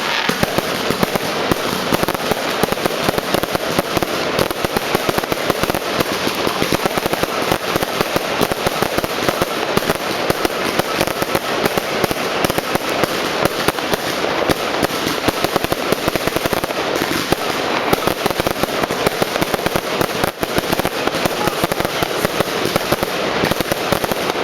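New Year's Eve fireworks and firecrackers going off in an unbroken, dense crackle, countless bangs overlapping with no pause.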